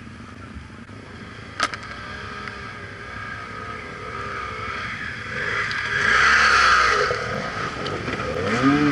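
A motorcycle engine revving up and down, its pitch rising and falling repeatedly and growing loudest a little past the middle, with a sharp click about a second and a half in.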